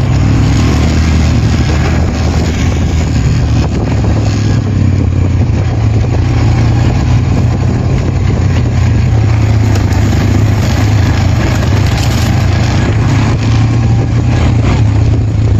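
Honda Recon 250 ATV's single-cylinder four-stroke engine running at a fairly steady speed while being ridden, a constant low drone with no letup.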